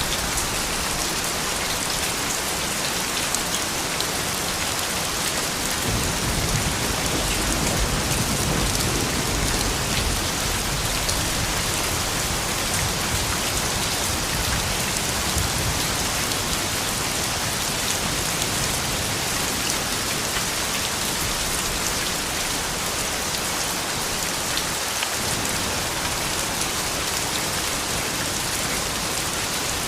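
Steady rain falling, many drops pattering on surfaces in an even hiss. A low rumble swells about six seconds in and dies away over roughly ten seconds.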